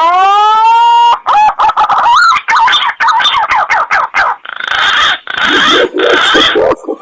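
Fruit pigeon lure call, punai/pergam type, used to draw in wild pigeons. It opens with a rising whistled note held for about a second, then a run of quick warbling, sliding whistles, then three harsh, grating notes in the second half.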